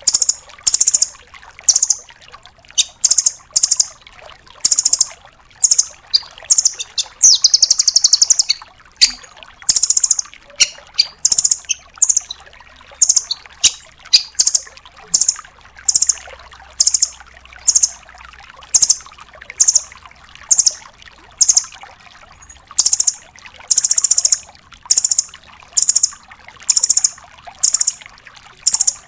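Velvet-fronted nuthatch (red-billed nuthatch) calling in a long series of short, very high, rapid trilled notes, about two a second, with one longer trill about eight seconds in.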